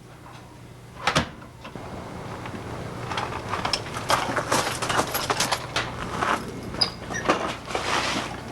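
A door, likely a sliding door, knocks shut about a second in, followed by a busy run of clicks, scrapes and rustles over a steady low hum.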